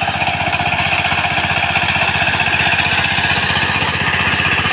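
Walk-behind power tiller's single-cylinder diesel engine running steadily, with a rapid, even chugging.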